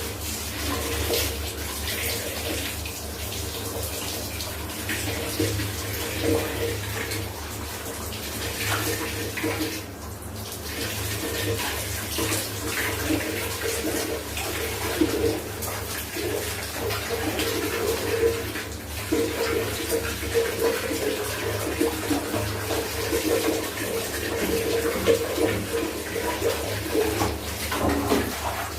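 Water splashing and pouring continuously, with frequent irregular splashes, as in washing by hand with water.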